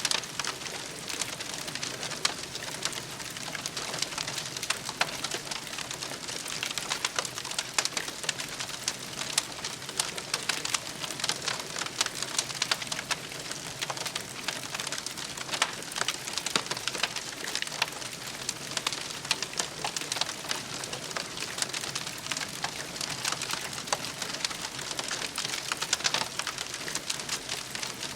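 Campfire crackling: many small sharp pops over a steady hiss.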